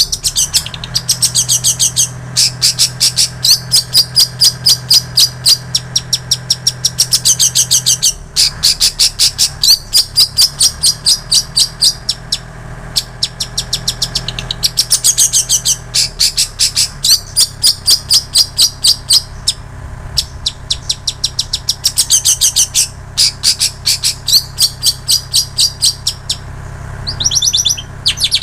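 Long-tailed shrike (cendet) singing a mimicked song, phrased like the prinia and canary songs it has learned. It gives long runs of rapid, high chirps in phrases of a few seconds, broken by short pauses, and turns to a few squeaky gliding notes near the end.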